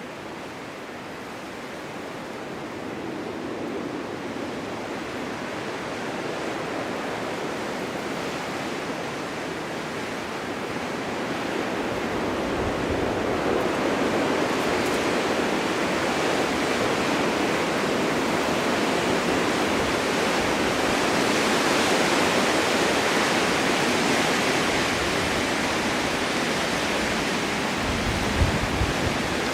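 Snowstorm wind rushing through a forest, building in strength over the first half into a sustained gust. A brief low thump comes near the end.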